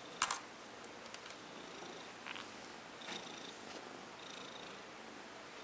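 Russian Blue kitten purring steadily, with a sharp click about a quarter second in.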